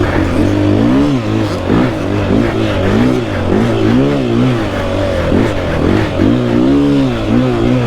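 Dirt bike engine, a KTM 500 EXC-F four-stroke single, revving up and dropping back over and over as the throttle is opened and closed while riding.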